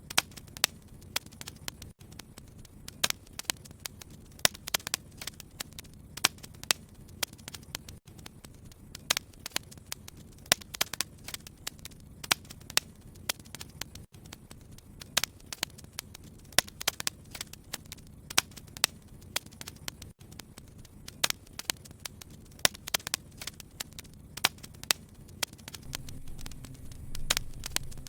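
Wood fire burning in a fireplace, crackling with many irregular sharp pops and snaps over a steady low hiss of flame. The low rumble of the flames grows stronger near the end.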